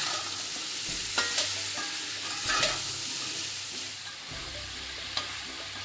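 Raw mango pieces sizzling in hot spiced oil in a metal kadhai while a metal spoon stirs them, with a few scrapes and clinks of the spoon against the pan; the mango is being roasted in the tempering.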